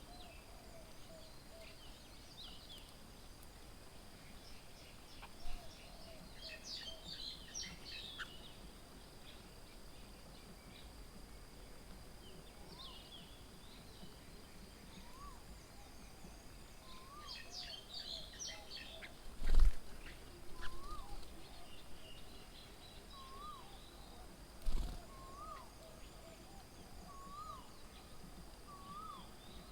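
Birds calling at a garden bird table: two spells of high, busy chirping, and through the second half one bird repeating a short rising whistle every second or two. Two sharp thumps, the loudest sounds, fall a little past the middle and about five seconds later.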